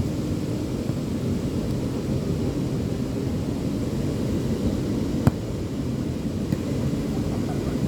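Steady low roar of surf and wind at an ocean beach, with one sharp click about five seconds in.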